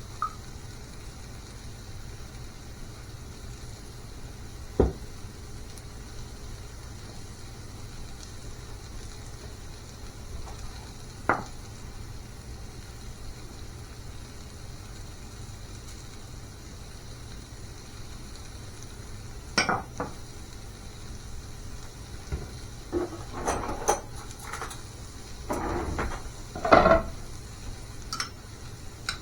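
Kitchen cookware and utensils clinking and clattering. A few single knocks come spaced several seconds apart, then a busier stretch of clinks and clatter near the end, over a steady low hum.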